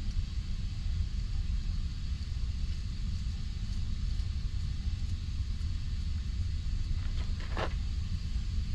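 Steady low mechanical rumble, like a large engine or machine running nearby, with a short clatter of metal clicks about seven and a half seconds in as parts are handled.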